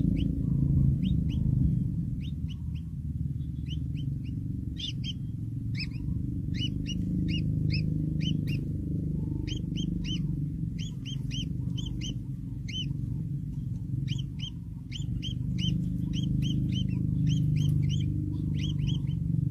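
Young birds cheeping: many short, high peeps, several a second, over a steady low rumble.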